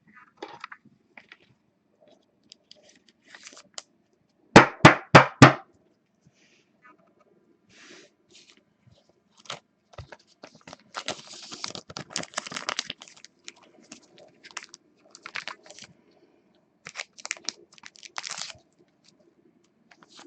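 Plastic crinkling and rustling from trading cards and their packaging being handled, with scattered light clicks and a quick run of four loud sharp clicks about five seconds in.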